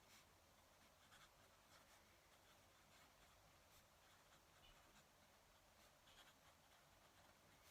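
Faint scratching of a fountain pen nib on paper, in short irregular strokes.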